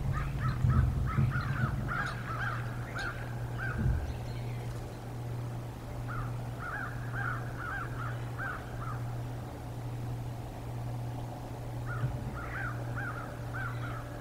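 A bird calling in three bouts of short, repeated notes, about three a second, over a steady low hum.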